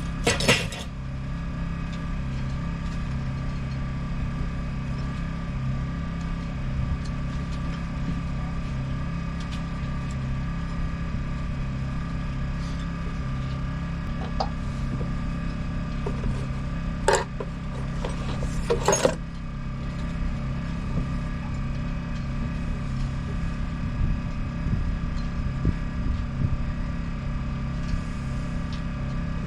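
A motor running steadily with an even drone, with a few sharp clicks or knocks at the start and twice past the middle.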